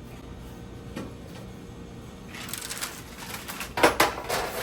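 Handling noise in a kitchen: a single click, then about two and a half seconds in a stretch of rustling and small clattering, with one sharp knock near the end.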